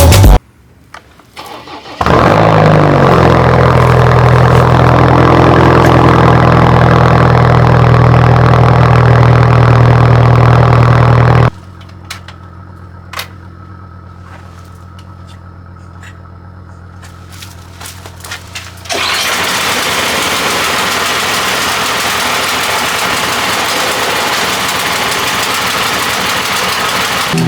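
An engine starts about two seconds in, its pitch rising as it catches, then runs steadily for about nine seconds before cutting off. After a quieter stretch with a few clicks, a steady rushing noise fills the last third.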